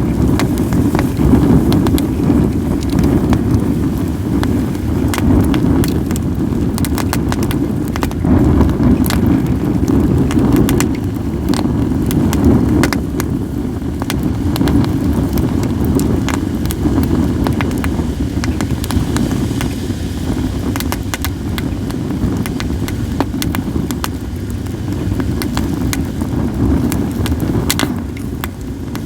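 Wood fire of acacia and mixed firewood crackling, with frequent sharp pops and snaps scattered irregularly through it. A constant low rumble of wind on the microphone runs underneath and is the loudest part.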